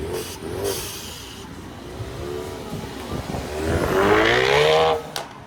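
Ford Mustang engine revving: a few short blips, then a long rev rising in pitch about three and a half seconds in, the loudest part, which cuts off sharply near the end.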